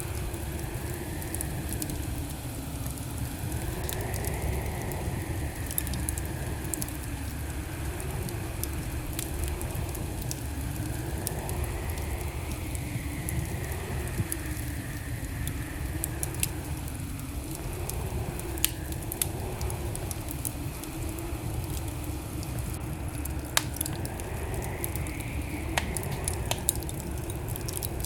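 Wood fire burning in a fireplace: a steady low rumble of the flames with scattered crackles and sharp pops, a few of them louder in the second half.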